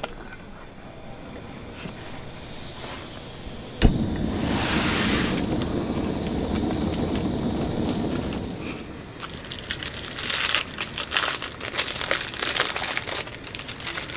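A sharp click, then a rushing noise for several seconds, then a dense run of small crackles like something being crinkled and rustled.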